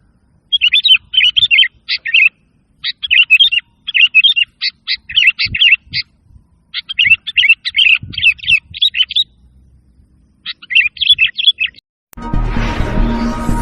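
Sooty-headed bulbul (kutilang) singing in repeated bursts of quick, chirpy, bubbling phrases with short pauses between them. Music starts abruptly near the end.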